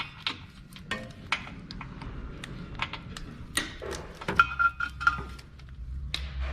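Hand ratchet with a 12 mm socket working a rusty sway bar bushing bracket bolt: scattered metal clicks and clinks, with a brief ringing clink about four seconds in.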